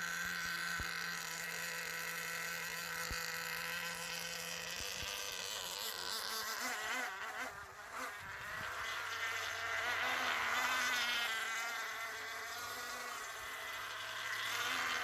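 Small glow-fuel nitro engine of an RC jet-ski running on its first startup with a steady high buzz. Its pitch wavers unevenly around the middle.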